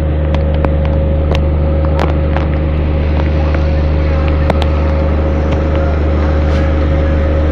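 Electric local train running, a loud steady low hum with a constant whine above it, with scattered clicks and knocks.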